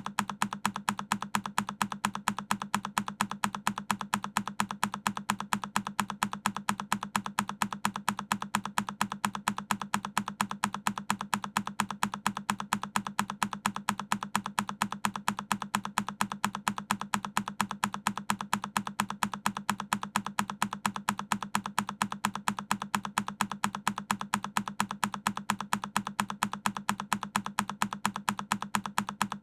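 A single key on a Keychron K10 mechanical keyboard clicking over and over, the same press repeating evenly several times a second.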